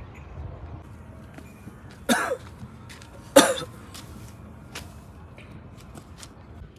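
Two short, loud vocal sounds about a second apart, each dropping quickly in pitch, over a faint low rumble.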